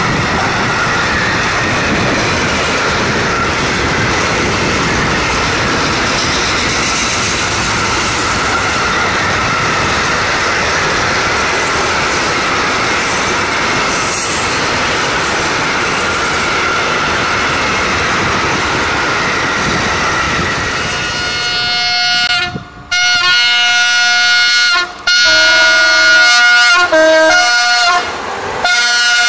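Long container freight train rolling past on electrified track: a steady rush of wheels on rail with a thin, steady squeal. From about 22 seconds in, an approaching electric locomotive sounds its horn in several loud blasts that shift in pitch.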